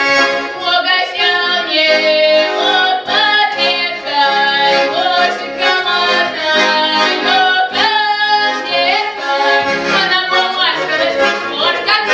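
A female voice singing Russian folk pripevki, short sung ditties, to accordion accompaniment.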